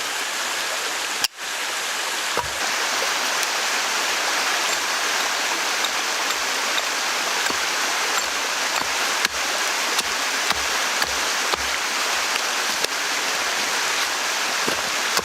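Steady rushing of running water, like a stream, which drops out briefly just over a second in.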